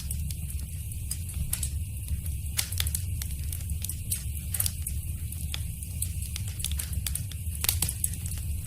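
Wood fire crackling in a fireplace: irregular sharp pops and snaps, several a second, some louder than others, over a low steady rumble.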